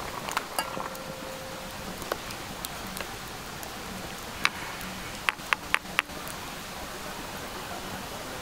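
Clam chowder boiling in a small camping pot over a wood fire, a steady bubbling hiss with the fire behind it. There is one sharp click about four and a half seconds in, and a quick run of four more about a second later.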